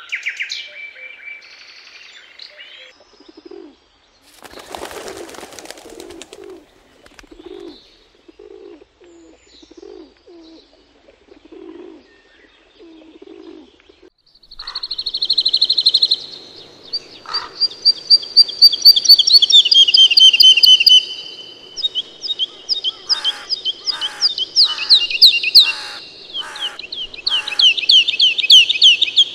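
Small caged parrots chirping briefly, then feral pigeons cooing softly in low repeated coos, with a burst of wing flapping about five seconds in. From about fourteen seconds a loud, high bird call takes over: whistled notes that sweep up and down, repeated quickly.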